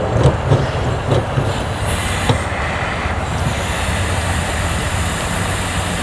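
Residual propane hissing out of an RV water heater's gas line as its fitting is loosened with wrenches. A few metal clicks from the wrench come first, then a steady hiss sets in about three seconds in as the line's gas pressure bleeds off.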